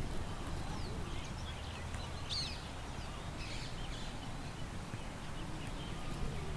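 Small birds chirping and twittering in scattered short calls, one louder call about two seconds in, over a steady low rumble of wind.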